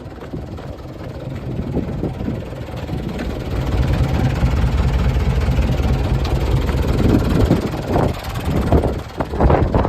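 Mitsubishi Canter's 4D33 four-cylinder diesel engine running, growing louder about four seconds in. A few sharp knocks sound over it near the end.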